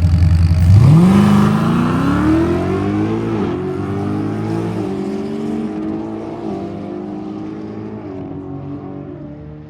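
Drag car launching from the start line: the engine note held at steady revs breaks about a second in and climbs. It drops briefly at several upshifts as the car pulls away down the track and fades into the distance.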